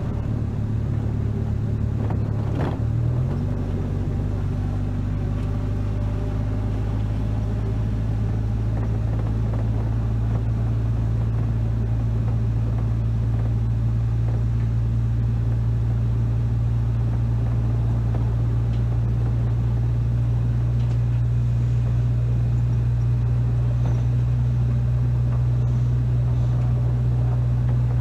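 Vehicle engine running with a steady low drone while driving slowly on a rutted, snowpacked road; the engine note changes about three seconds in, then holds steady.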